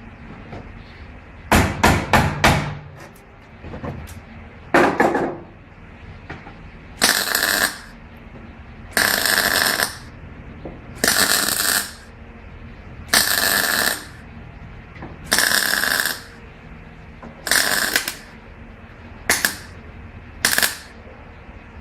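Impact wrench hammering in short bursts of about a second, roughly every two seconds, after a quick cluster of knocks near the start, as during bolt work on a van.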